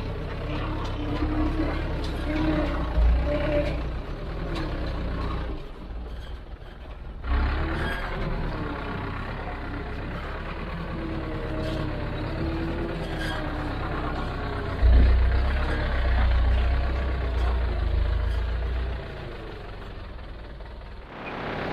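Heavy diesel equipment running under varying load: a low engine rumble with wavering mid-pitched tones. It drops off suddenly for a moment about six seconds in, and grows louder and deeper for a few seconds past the middle.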